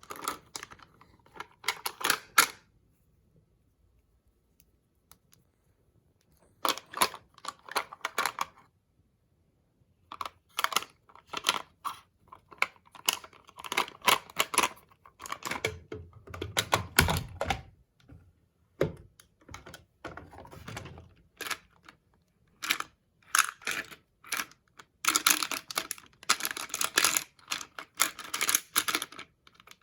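Makeup cases and caps handled close to the microphone: bursts of quick plastic clicks and taps, with a few pauses between the bursts and a dense run of clicking near the end.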